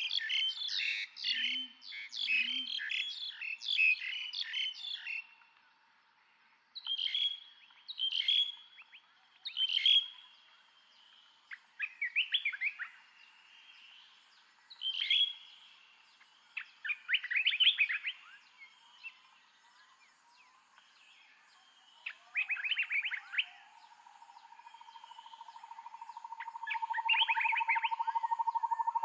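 Birds chirping and calling: a fast run of chirps for the first five seconds, then single calls and short buzzy trills every second or two. A rapid, even trill at one steady pitch grows louder over the last few seconds.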